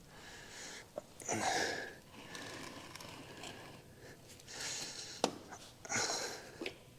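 A person's breathing: a few short, hissy breaths and sniffs, with a couple of sharp clicks from handling.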